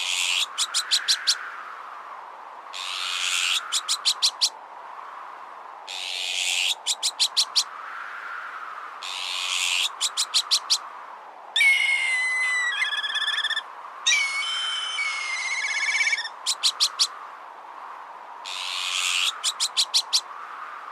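Looping bird-repellent mix: a harsh, rasping alarm call with a quick run of four or five sharp notes, repeated about every three seconds, in the manner of an azure-winged magpie's alarm. Near the middle come two longer warbling, gliding calls like a black kite's, all over a steady, swelling wind noise.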